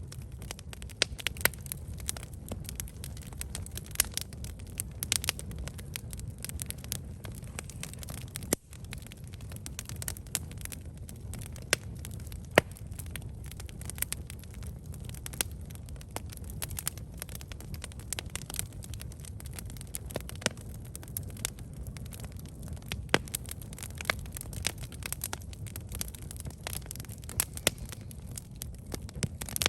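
Wood campfire burning, with frequent irregular crackles and pops over a steady low rumble of the flames.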